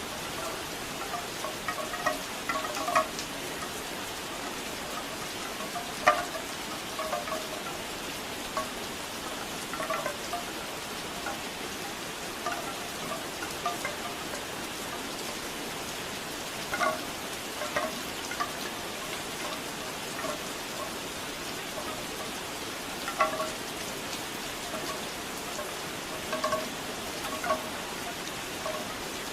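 Steady rain with bamboo wind chimes knocking in short, irregular clusters every few seconds.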